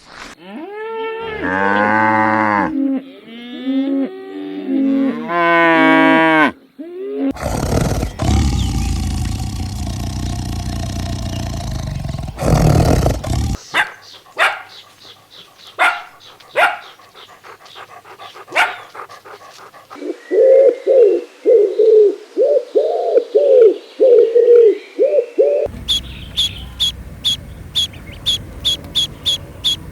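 A string of different animal sounds cut one after another. First come a few pitched calls that bend up and down, then a long loud noisy call, then scattered sharp clicks. Near the end there is a run of quick repeated calls, followed by a fast, even, high-pitched ticking.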